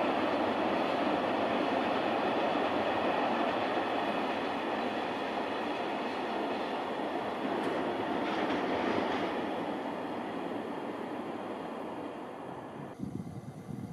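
Freight train of tank wagons rolling past: a steady rumble and clatter of wheels on the rails that fades near the end as the last wagons go by, then cuts off abruptly.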